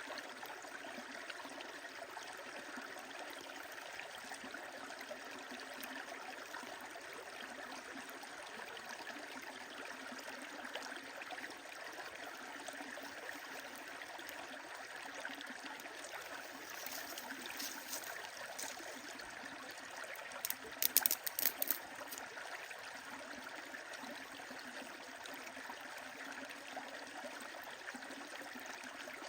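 A stream flowing steadily, with a wood fire crackling over it; about two-thirds of the way through, a short run of sharp pops from the fire is the loudest sound.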